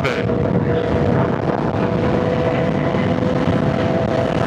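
Sport-bike engine running at a steady speed in traffic, under heavy wind noise on the helmet microphone.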